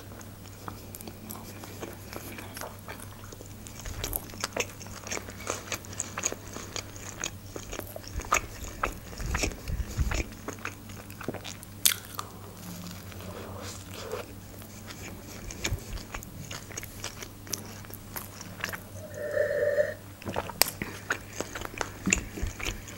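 Close-up eating sounds of a McDonald's burger being bitten and chewed: wet chewing with irregular crunchy clicks and smacks of the mouth, and a short pitched sound near the end.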